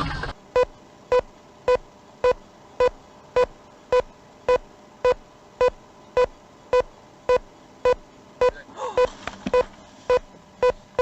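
An electronic warning beep repeating evenly, a little under two short beeps a second, all at the same pitch.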